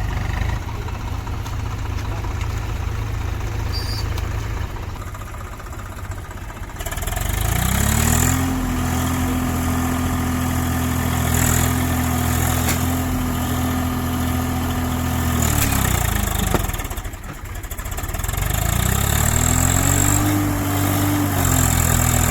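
Tractor diesel engine running at low revs, then revved up at about seven seconds and held high for about eight seconds before dropping back. It revs up again a couple of seconds later and holds to the end: the tractor is under load trying to pull free of deep mud.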